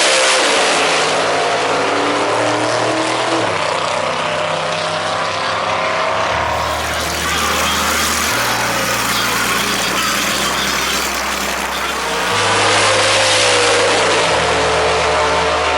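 Loud drag-racing car engines running hard at the strip, the noise swelling near the start and again toward the end.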